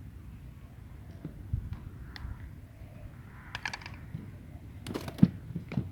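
Scattered clicks and knocks over a low rumble, with a quick run of ticks about three and a half seconds in and the loudest knocks about five seconds in.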